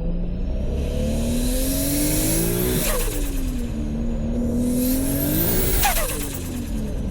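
Turbocharged Toyota Supra 2JZ straight-six accelerating hard twice, its pitch climbing each time with a rising turbo whistle. Each pull ends with a sudden lift, about three seconds in and again near six seconds, and a rapid turbo flutter.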